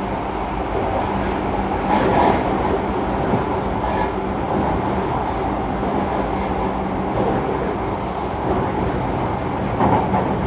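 Interior running sound of a JR Kyushu 305 series electric train, heard aboard a motor car: a steady rumble of wheels on rail with a steady low hum that fades out about halfway through, and rail-joint clicks about two seconds in, about four seconds in and near the end.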